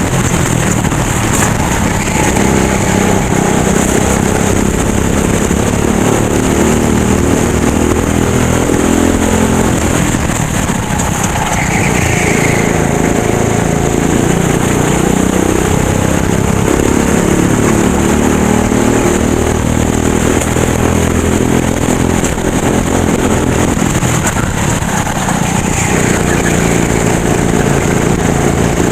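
Racing kart engine running hard, its pitch falling and climbing again twice as it slows for corners and accelerates out: once about a third of the way in, and again near the end.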